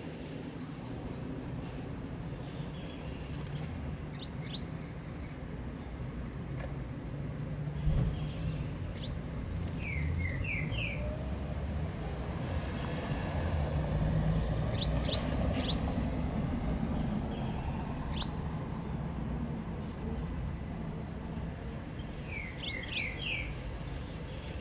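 A coleiro (double-collared seedeater) gives scattered short groups of quick chirps, a few notes at a time, over a steady low rumble.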